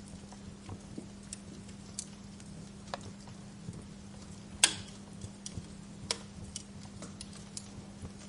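Bonfire crackling: burning wood giving off irregular pops and snaps, with one sharp, loud pop a little past halfway, over a steady low hum.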